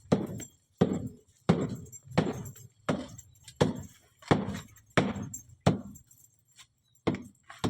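Hammer blows knocking a hole through a wall, a steady ringing strike about every 0.7 seconds. The blows pause about six seconds in, then two more come near the end.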